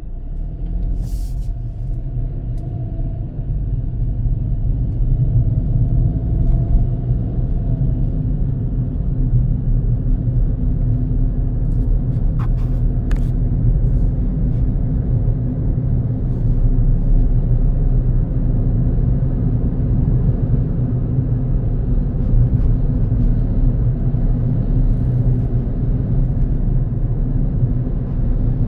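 Car driving on a road: a steady low rumble of engine and tyres that builds over the first few seconds as the car gets under way. Two brief faint clicks come about halfway through.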